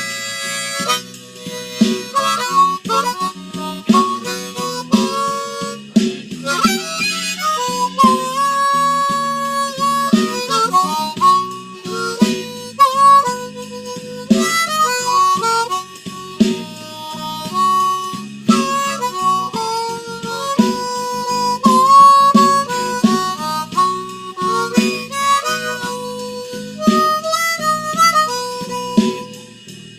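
Blues harmonica solo over a drum and bass backing track: long held notes around the middle of the range, broken by quick runs and bent notes.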